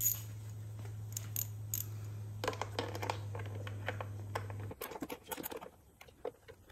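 Light metallic clicks and scrapes of hand tools working bolts out of plastic bodywork, scattered and busiest in the middle. A steady low hum under them cuts off suddenly about two-thirds of the way through.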